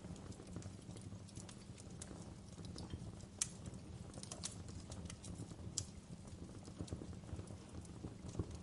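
Wood fire crackling: irregular sharp pops and snaps over a steady low rumble of burning, with one louder pop about three seconds in.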